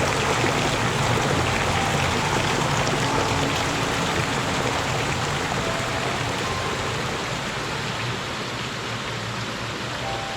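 Spring water running over rocks in a small cascade: a steady rush of water that eases off slightly toward the end.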